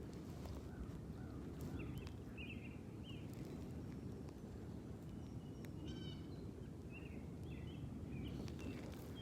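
Small birds calling repeatedly with short chirps, and one harsher, layered call about six seconds in, over a steady low rushing noise.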